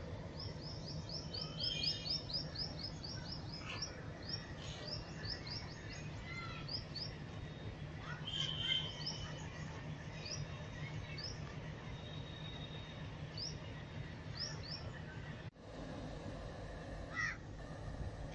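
Birds chirping and calling, with a quick run of short, high, rising chirps near the start and scattered chirps and a few harsher calls after, over a steady low hum.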